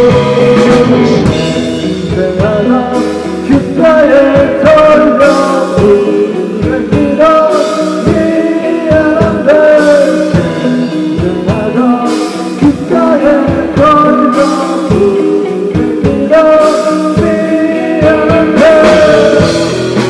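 Rock band playing live: electric guitar, bass and drums under a sung lead vocal, loud and steady throughout.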